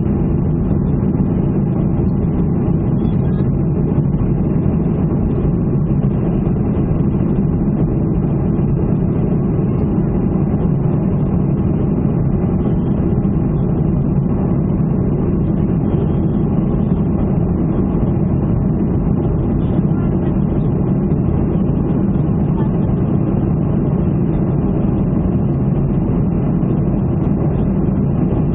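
Steady, loud drone of an airliner's jet engines and airflow heard from inside the passenger cabin, with no change in pitch or level.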